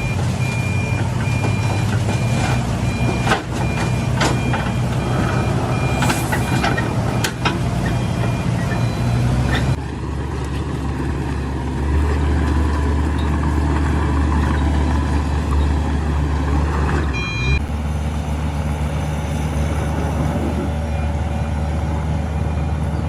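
Heavy diesel machinery engines running at a sand-delivery site, with a reversing alarm beeping steadily through the first few seconds. The engine sound changes abruptly about ten seconds in, to a deeper steady rumble.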